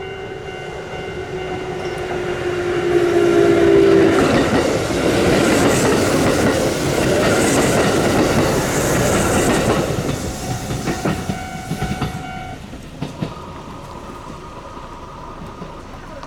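Kintetsu train passing over a level crossing: its horn sounds with a slightly falling pitch for the first few seconds and stops, then the rush and wheel clatter of the cars passing is loud for several seconds and fades. The crossing's warning bell rings steadily under the train and stops about twelve seconds in, after the train has passed.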